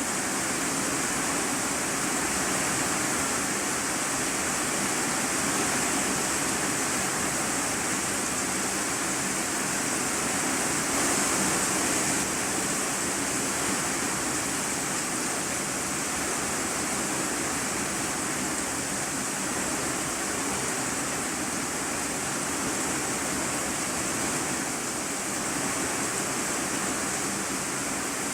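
Heavy rain drumming on a corrugated iron-sheet roof, heard from the room beneath as a steady, dense hiss.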